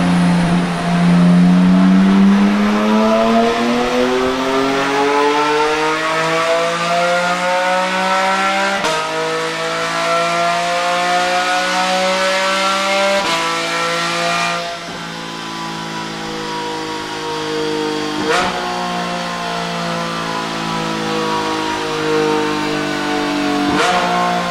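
Porsche 718 Spyder's 4.0-litre naturally aspirated flat-six, through a Tubi Style catback exhaust, revving hard under full throttle on a chassis dyno. The revs climb through the gears with two quick upshifts. A few seconds past halfway the throttle is lifted and the revs fall, with a sharp crack at each of two downshifts.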